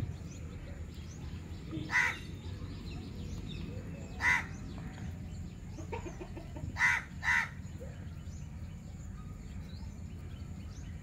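Four short bird calls: one about two seconds in, another a couple of seconds later, then two in quick succession, over a steady low background noise.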